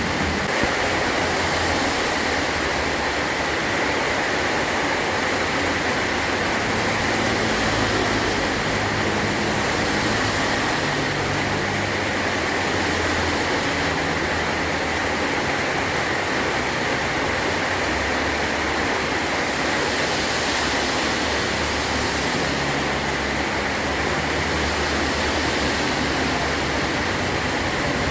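Heavy rain drumming steadily on a metal roof.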